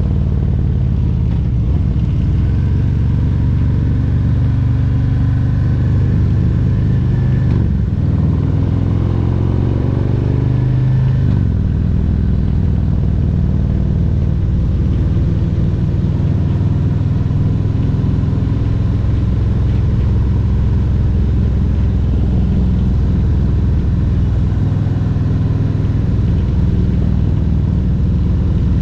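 2022 Harley-Davidson Road Glide Special's Milwaukee-Eight 114 V-twin running under way. About eight seconds in, the revs climb for a few seconds and then drop back at a gear change, after which the engine holds a steady cruise.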